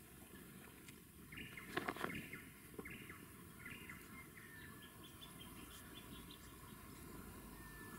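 Wild birds calling in the bush: a burst of chattering calls with a few sharp clicks about a second and a half in, then a run of short, high notes through the middle and a brief whistle near the end.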